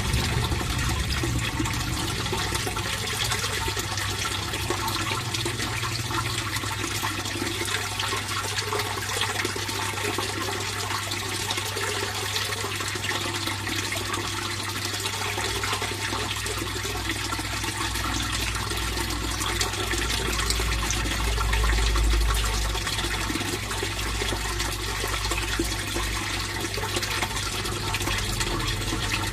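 Water in a fish pond flowing and splashing steadily in an even, continuous wash. Underneath is a low rumble that grows louder for a few seconds past the middle.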